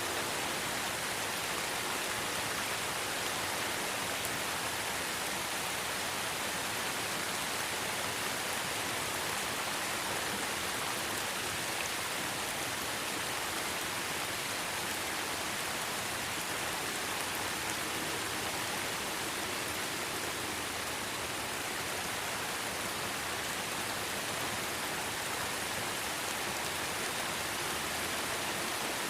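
Steady rainfall, a dense even hiss of rain with no single drops or thunder standing out.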